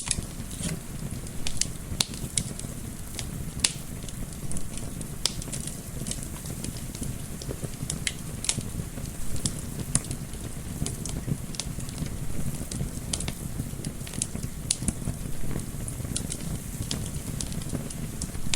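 Fireplace wood fire crackling, with irregular sharp pops and snaps over a steady low rumble, mixed with soft wind.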